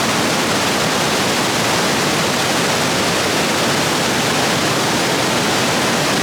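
Rapids rushing over rocks, swollen with heavy rain: a loud, steady rush of water.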